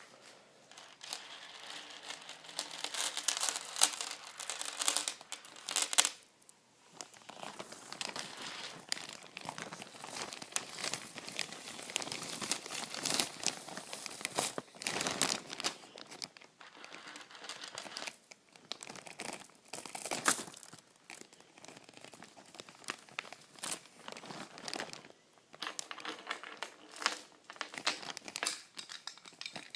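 Crinkly plastic being handled and crumpled close to the microphone: irregular crackling rustles with many sharp little clicks, broken by a few brief pauses.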